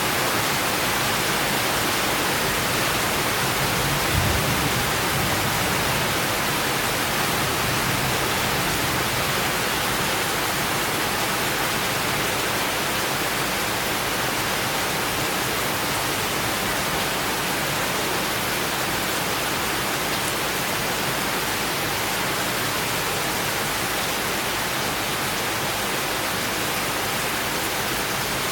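Steady summer rain falling: an even, unbroken hiss. A short low rumble comes about four seconds in.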